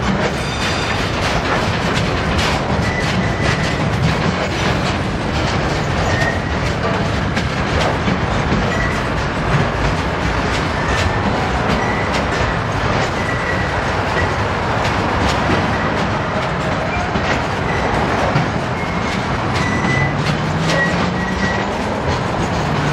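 Freight train wagons rolling past, a steady rumble with wheels clicking over the rail joints and brief high squeals now and then.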